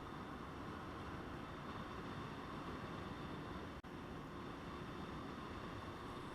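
Steady wind and road noise of a motorcycle riding along, broken by a brief dropout nearly four seconds in.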